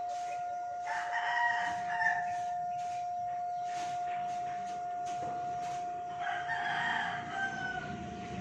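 A rooster crowing twice, first about a second in and again around six seconds in, over a steady high-pitched hum.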